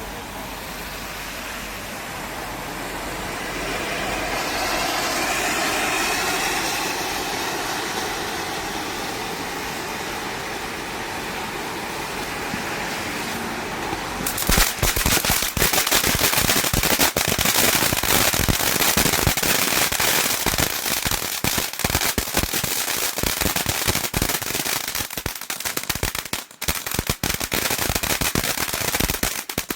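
Ground firework burning: a steady spraying hiss for about the first half, then a dense run of rapid crackling that thins out and stops near the end.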